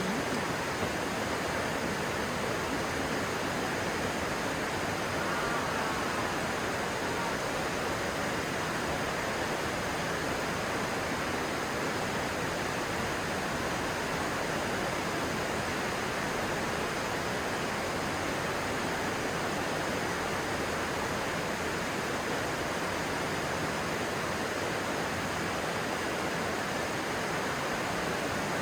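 Stream water rushing, a steady, even flow.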